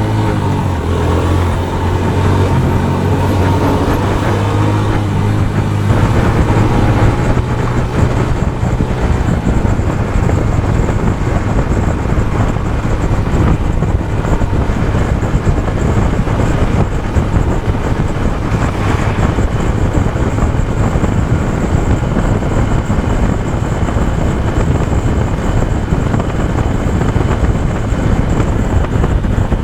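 Motorcycle ridden in traffic. For about the first six seconds its engine runs with a steady low note, then a dense, rough rumble of engine, wind and road noise takes over.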